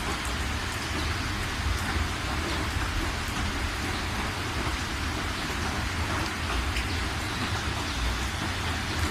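Steady rain falling, an even hiss with scattered individual drops ticking, over a constant low rumble.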